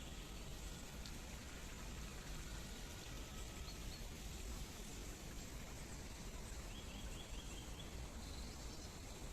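Water flowing and babbling steadily, with a few faint short bird chirps over it: a single chirp about a third of the way in and a quick run of four or five chirps near the end.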